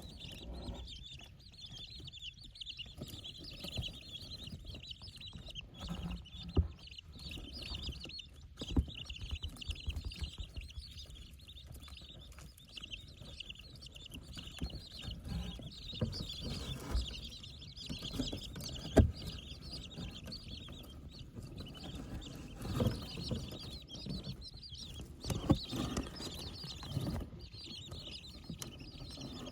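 A group of 15-day-old Rutin chicks peeping continuously in high, rapid chirps. Scattered sharp taps and knocks come through now and then, a few of them louder than the peeping.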